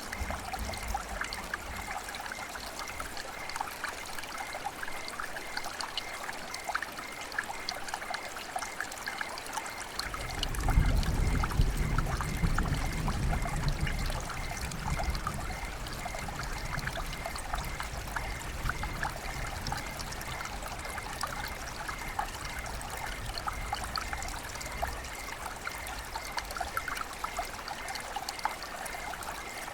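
Steady trickling and pattering of rain and running water, full of small drip ticks. About ten seconds in, a low rumble swells up and fades away over several seconds.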